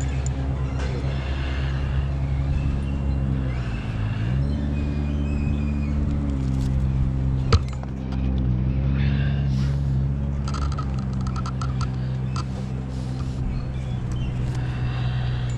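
An engine running steadily at low speed. Its pitch dips briefly and comes back up about four seconds in, and there is one sharp click about halfway through.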